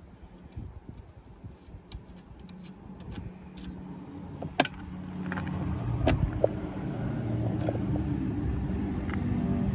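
A motor vehicle's engine rumbling low and steadily growing louder over several seconds, with a few sharp clicks along the way.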